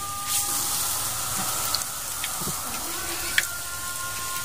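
Peyek batter frying in hot oil in a wok, sizzling steadily, with a couple of sharp clicks.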